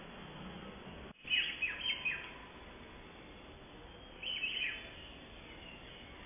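Small birds chirping in short, falling calls, in three brief bouts over a faint steady hiss.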